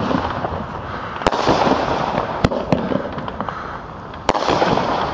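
Consumer fireworks going off: three sharp bangs, about a second in, near the middle and near the end, the first and last each followed by a stretch of dense crackling, with small pops scattered between.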